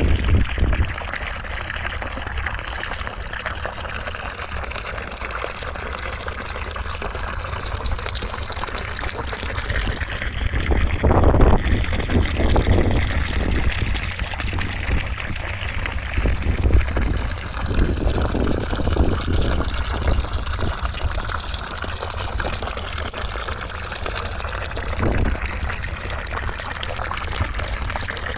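Continuous white noise, a steady rushing hiss that sounds like gushing water, its tone slowly drifting.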